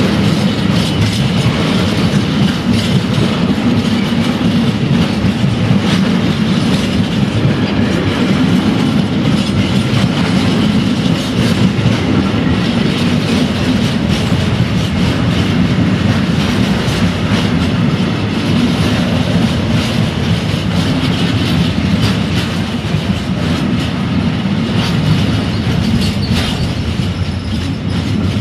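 Empty intermodal container wagons of a freight train rolling past close by: a steady, loud rumble of steel wheels on rail with a continuous irregular clacking of wheels running over the track.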